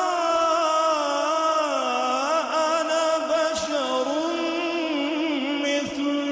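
Quran recitation: a single reciter chanting in a long, drawn-out melodic line, the voice held and gliding up and down in pitch.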